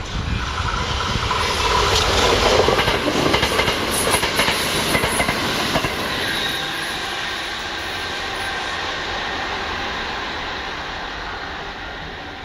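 Kintetsu electric train passing close by, wheels clattering over rail joints. It is loudest a few seconds in, then fades steadily as it moves away.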